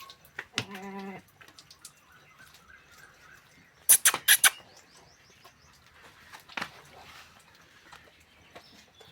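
Farmyard sounds: a short pitched animal call about half a second in, faint bird chirps, and a quick run of four loud, sharp knocks at about four seconds.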